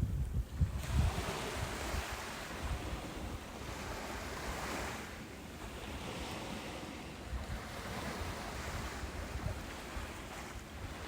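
Ocean surf washing onto a beach, the hiss of the breaking water swelling and easing every couple of seconds, with wind buffeting the microphone.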